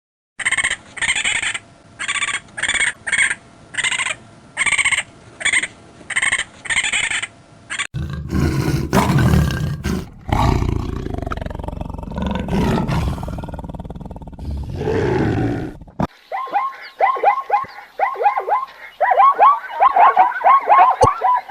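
A run of different animal calls. First comes a series of about a dozen short, high calls. About 8 seconds in, a deep, loud roar takes over for several seconds. Near the end come rapid chirping calls that fall in pitch.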